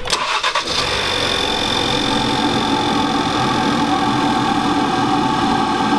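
A 2016 Ford Focus RS's turbocharged four-cylinder engine, fitted with a Mishimoto cold air intake, starting up in the first second and then idling steadily.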